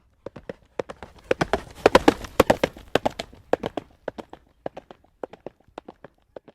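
Horse's hooves clip-clopping on a paved road at a trot, a quick, even rhythm of sharp knocks. It grows louder and busier about a second and a half in, then eases off again.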